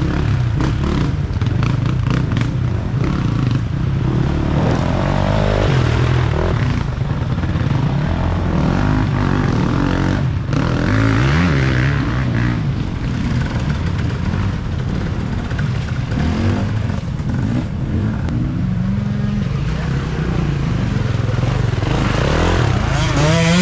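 Off-road racing dirt bikes running and revving on the course, the engine pitch rising and falling as the riders work the throttle. One bike revs up and down hard near the end.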